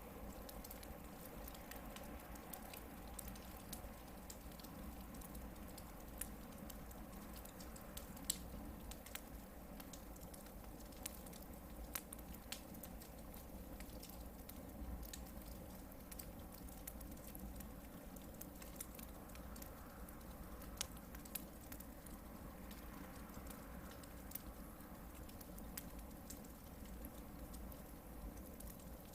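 Hardwood campfire burning: a faint steady hiss with scattered sharp crackles and pops from the logs, a few louder pops about 8, 12 and 21 seconds in.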